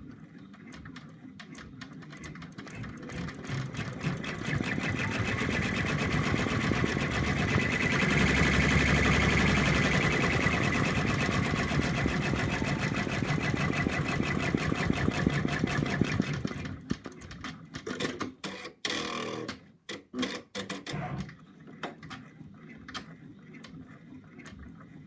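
Home embroidery machine stitching out the beak of an in-the-hoop felt design: a rapid, even needle rhythm that builds over the first few seconds and stops about two-thirds of the way through, followed by a few short clicks and whirs from the machine.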